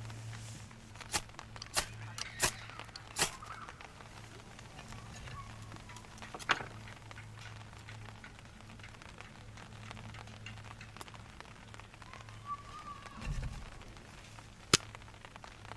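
Wood campfire crackling, with scattered sharp pops, the loudest near the end, over a low steady hum.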